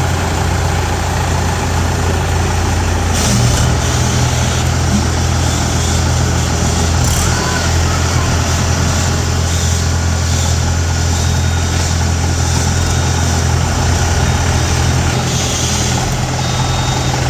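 A tractor's diesel engine running steadily close by, with a low, even hum.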